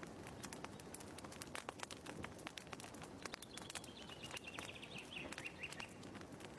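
Wood fire burning in a fireplace, crackling with many small irregular snaps over a soft hiss. About halfway through, a bird's twittering trill falls slightly in pitch for a couple of seconds.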